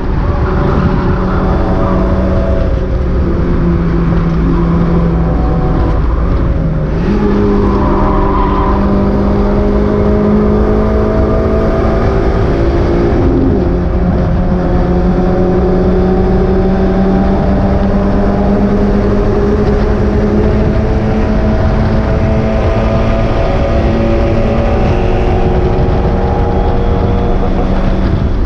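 Mazda MX-5 race car's four-cylinder engine running hard, heard on board over road and wind noise. Its note climbs slowly under load, with two sudden steps in pitch as gears change, at about seven and thirteen seconds in.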